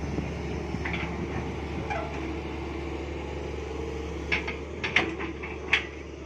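Excavator engine running steadily, with a few sharp metallic clanks and squeaks from the working machine about four to six seconds in.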